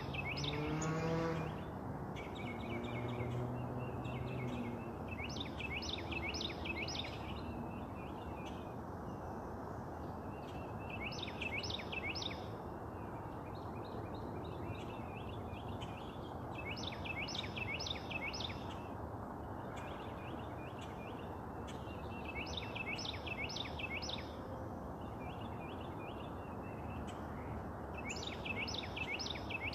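A songbird repeats a short song phrase of four or five quick, downslurred whistled notes about every five or six seconds, over a steady low background rumble.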